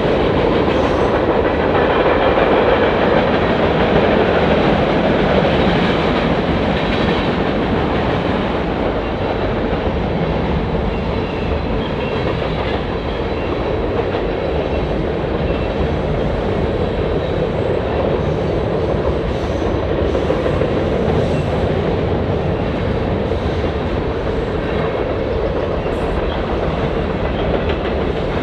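A train's rail cars rolling past on the track, with a steady rumble and the clatter of wheels over the rails, slightly louder in the first few seconds.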